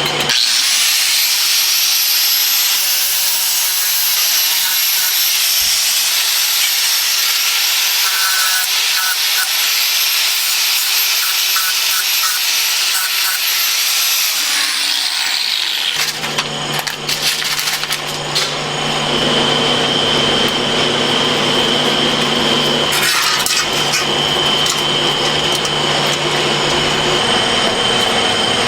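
Power tool working on a workpiece: a dense high hiss with a thin steady whine for about sixteen seconds, then it changes to a different steady machine sound with a low hum and a high whine.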